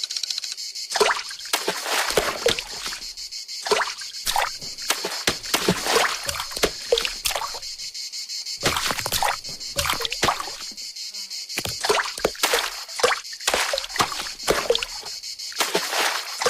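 Steady high insect chirping, with many short, sharp cartoon sound effects in irregular clusters over it.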